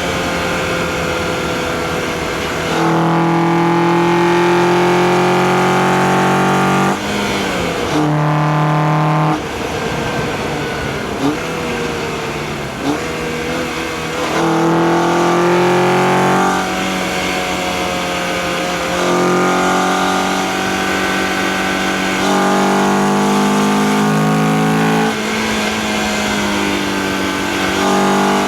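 Acura TSX's K24A2 four-cylinder engine under load, heard through an engine-bay microphone with intake noise: pitch climbs under throttle, then drops at each gear change or lift, several times over.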